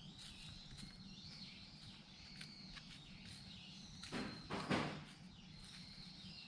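Outdoor ambience with birds chirping, a few small scattered clicks, and a louder rustling crunch lasting about a second a little past four seconds in.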